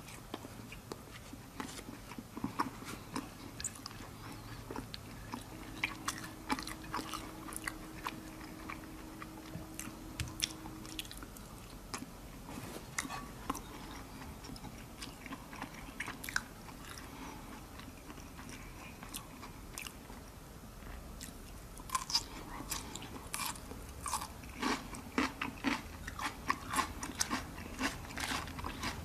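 A person eating close to the microphone: chewing and biting with scattered crunches, which come more often in the last several seconds.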